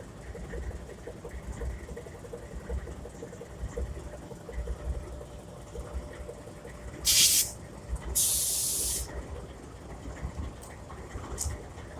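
Stopped diesel freight locomotive idling with a low rumble, broken by two short blasts of compressed air hissing from the train's air system, a brief one about seven seconds in and a longer one of about a second just after.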